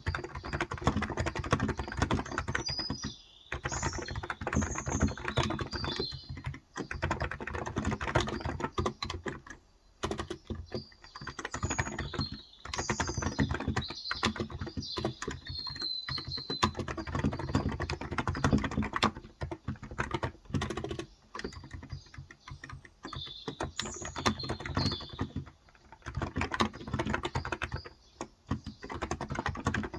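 Fast, continuous typing on a Cox Endeavor electrostatic capacitive (contactless) keyboard with 35 g switches, a dense patter of keystrokes broken by a few brief pauses. Birds chirp in the background in several short spells.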